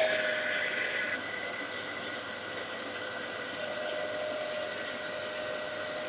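Dyson DC07 upright vacuum cleaner running steadily with a motor whine. A high hiss drops away about two seconds in and the sound gets slightly quieter.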